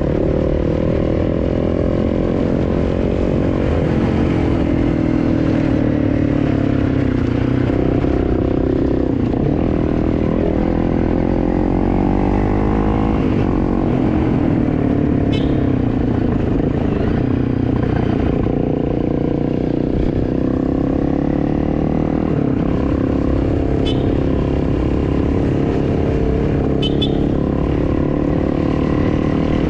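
A vehicle engine running steadily under way, its pitch slowly rising and falling with the revs, with a few brief clicks or rattles.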